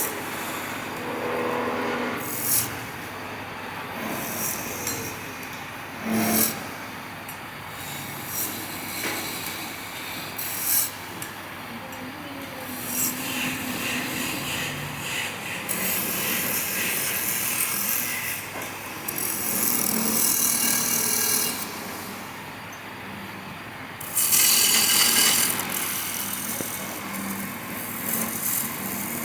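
Wood being cut and scraped on a lathe: a rasping hiss that comes and goes in stretches, with a few short sharp clicks.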